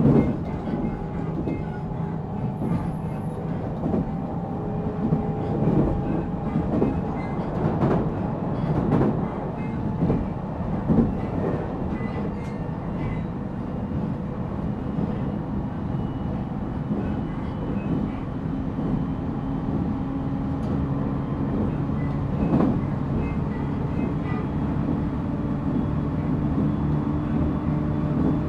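Running sound inside a JR Central 313 series 0-subseries electric motor car, MoHa 313-7. Wheels click over rail joints through roughly the first half. Thin motor tones rise slowly in pitch, and a lower motor tone grows louder and climbs near the end as the train gathers speed.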